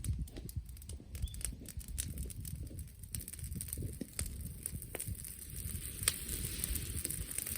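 Brushwood bonfire crackling, with scattered sharp pops, one louder about six seconds in, over a low rumble of wind on the microphone.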